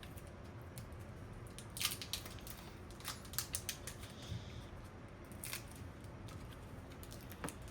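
Small plastic cheese packet being handled and opened: scattered sharp crackles and clicks, with a short tearing hiss about four seconds in.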